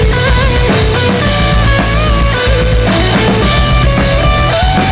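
Rock band playing an instrumental passage: a driving drum kit with bass drum and bass, and guitars holding sustained notes with a few bends.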